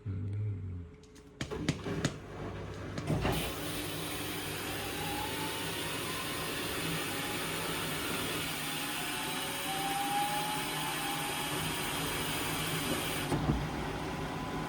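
Indesit washing machine in its final spin. After a short hum and a few clicks, the motor drives the drum up to speed with a faint rising whine over a steady rushing noise. The rushing eases off near the end.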